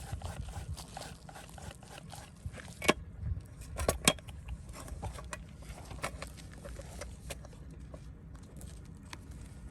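Irregular clicking and knocking of hard objects, with two sharp, louder knocks about three and four seconds in.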